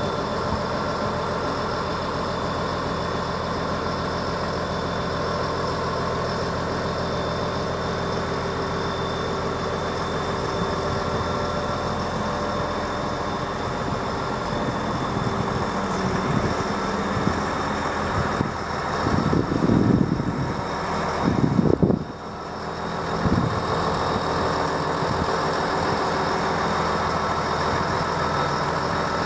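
An engine running steadily with a constant droning hum. It swells into louder low rumbles for a few seconds about two-thirds of the way in.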